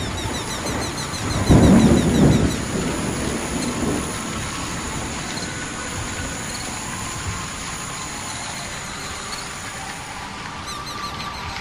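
Thunderstorm: a low rumble of thunder swells about a second and a half in and fades over the next few seconds, over a steady hiss of rain.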